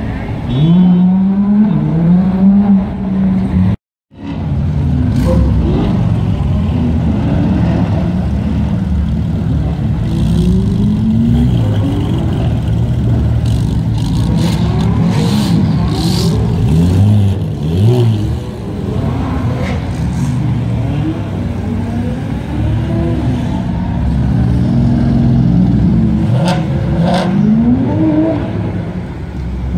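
Several sports cars, including a Lamborghini Gallardo and a Porsche 991 GT3, revving and pulling away one after another, the engine notes rising and falling over and over. There are a few short sharp cracks in places, and the sound drops out briefly about four seconds in.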